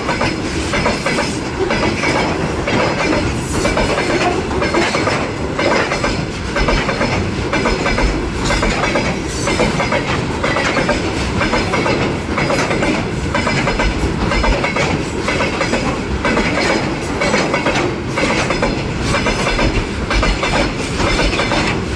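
Train cars rolling past behind a departing diesel locomotive, their wheels clattering over the rail joints in a steady, repeating clickety-clack over a constant rumble.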